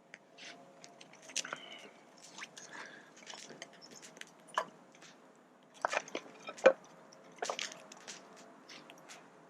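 Small birch-bark tinder fire crackling as it catches, with irregular snaps and pops, the sharpest about seven seconds in.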